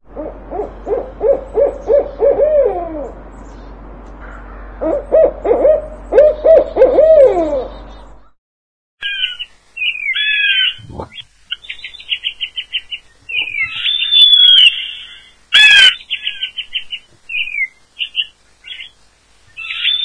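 Bird calls in two parts. First, for about eight seconds, come low hooting calls in quick runs of notes, some ending in a falling slide. Then, after a brief gap, higher parrot calls chatter and whistle, with one sharp loud squawk about sixteen seconds in.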